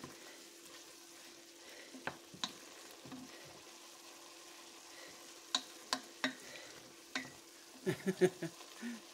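Cubed chicken breast sautéing with onion and garlic in a pot, a quiet steady sizzle, while a spoon stirs it and clicks against the pot; a quick cluster of louder knocks of the spoon on the pot comes near the end.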